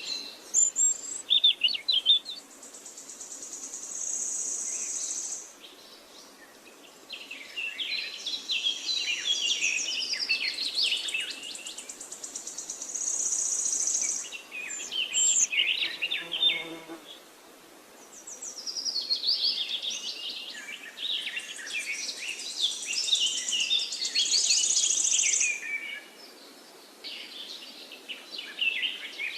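Songbirds singing and chirping in bursts of several seconds with short lulls between. A high, fine buzzing trill comes in three times, each lasting a couple of seconds.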